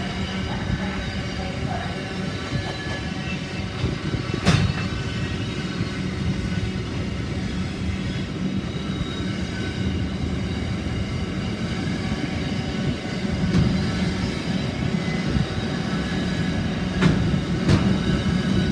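Freight train rolling past with a steady rumble and drone. A sharp click from the wheels comes about four seconds in, and two more close together near the end.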